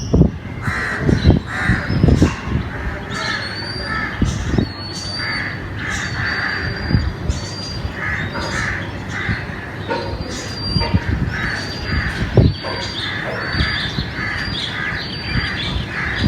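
Crows cawing over and over in quick, short calls, with thinner high chirps from smaller birds among them.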